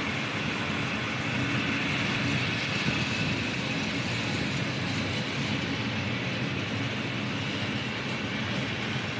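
Freight train hauled by electric and diesel locomotives moving through a station: a steady rumble of wheels on rail and running gear.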